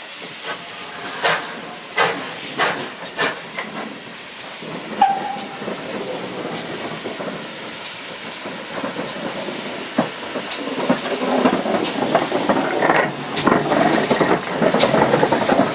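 Steam locomotive hissing steam, with a few sharp clicks in the first seconds; the sound grows louder in the second half as the train draws near.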